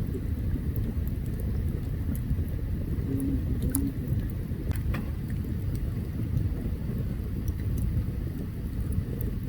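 Open campfire crackling, with scattered sharp pops over a steady low rumble.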